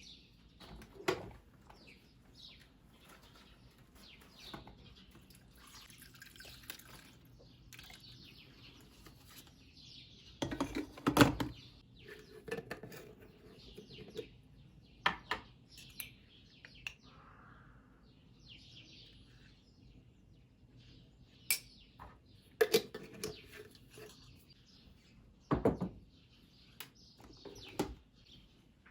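Scattered clinks and knocks of dishes and utensils, loudest about 11 seconds in, over faint bird chirping.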